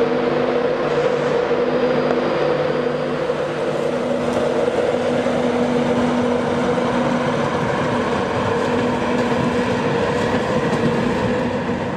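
Train at a station platform running with a steady, even hum that carries several held tones.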